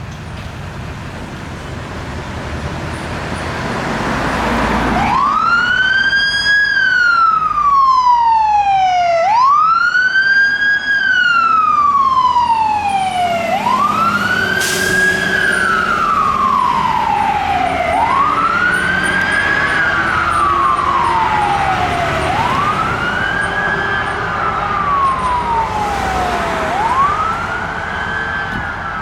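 Fire truck approaching with its engine and road noise building. About five seconds in, its siren starts wailing in repeated cycles, each a quick rise and a slower fall, roughly every four seconds.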